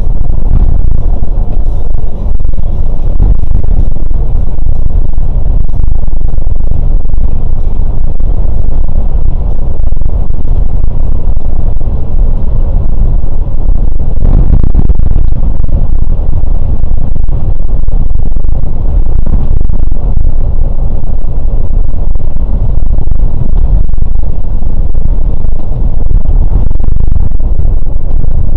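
Loud, steady low rumble of a Scania K410 coach on the move: engine and road noise, recorded so loud that it distorts.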